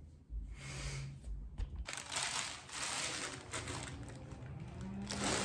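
Plastic mailer bag crinkling and rustling as it is handled, a dense crackling rustle that starts about two seconds in, after a low handling rumble.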